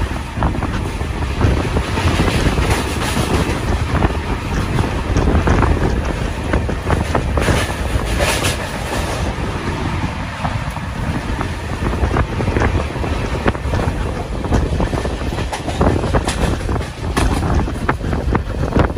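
Train running over a riveted steel truss railway bridge: a loud steady rumble with repeated wheel clatter, with wind on the microphone.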